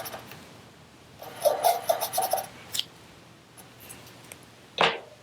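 Felt-tip marker squeaking on paper as small pupils are drawn in, a run of short squeaks between about one and two and a half seconds in. A short louder sound comes near the end.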